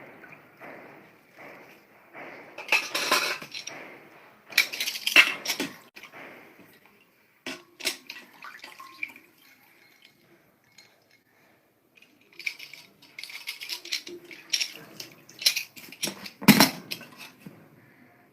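Dishes and cutlery clinking and clattering in irregular bursts, with a quiet spell in the middle and a sharp loud clack near the end.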